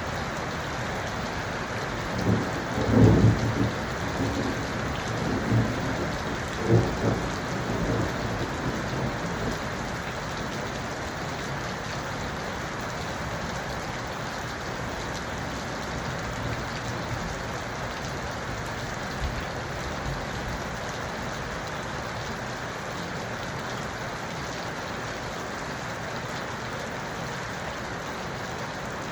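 Steady rain falling, an even hiss, with a roll of thunder rumbling from about two seconds in, loudest around three seconds and fading out by about nine seconds.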